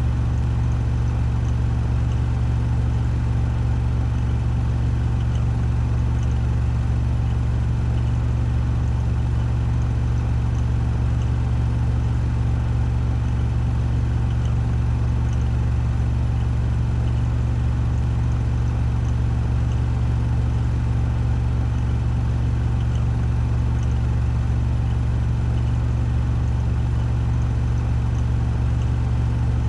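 Washing machine drum spinning at a steady 1400 rpm during its spin cycle, a loud, even low hum and whir.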